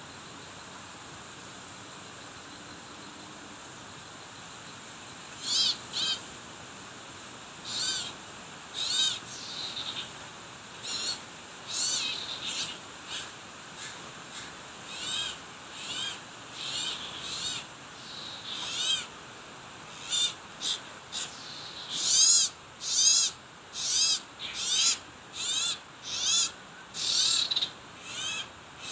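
Repeated short, high-pitched bird calls: a few scattered notes from about five seconds in, then coming faster and louder near the end, over a quiet steady background.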